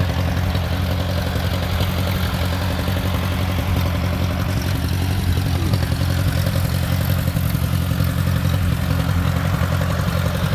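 Homemade tractor's small engine running steadily with a low, even rumble.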